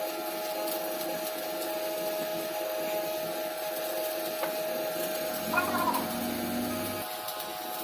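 Shielded metal arc (stick) welding on carbon steel pipe: the arc gives a steady crackling hiss, with a steady hum underneath.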